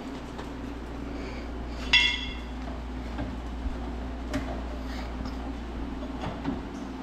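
A sharp clink that rings briefly about two seconds in, as of a small hard part or tool knocked or set down, then a few lighter clicks and taps of handling, over a steady low hum.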